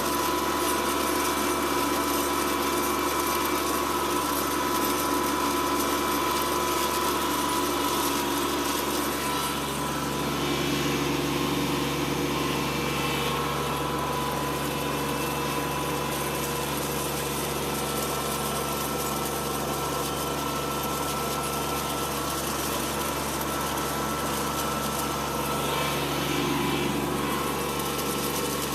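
Kubota B2601 compact tractor's three-cylinder diesel engine running steadily while it drags a drag harrow with its tines set for deep tillage.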